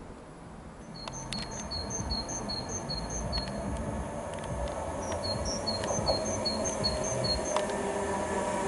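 A Class 390 Pendolino electric train approaching at speed, its rumble and rail noise growing steadily louder. Over it, a small bird sings a quick, high two-note phrase over and over, in two bouts of about two and a half seconds each.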